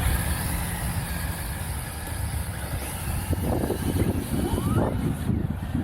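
Wind rumbling on the microphone, with a radio-controlled model's electric motor whining up in pitch briefly, about four seconds in.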